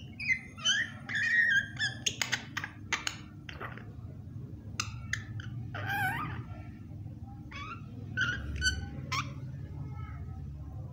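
Pet myna calling: a quick run of sharp clicks, chirps and squawks over the first three or four seconds, then scattered short whistled and squawking calls, some sliding in pitch, until about nine and a half seconds in.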